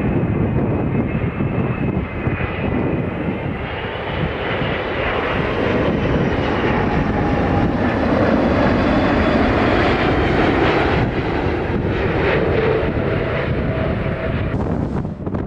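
Jet airliner's engines on landing approach, a continuous loud rush with a high whine that wavers in pitch, the top end fading near the end.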